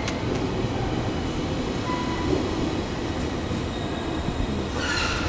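JR Kyushu 885 series electric train moving along a station platform: steady rumble and clatter of wheels and running gear.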